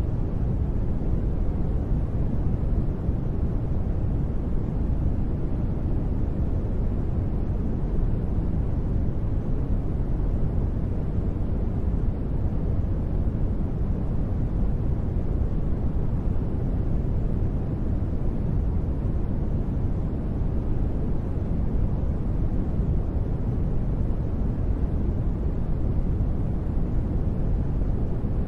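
Continuous sleep noise, sold as white noise, steady and unchanging with no sudden sounds. Most of its weight sits in the low end, so it sounds like a deep, even rumble with little hiss.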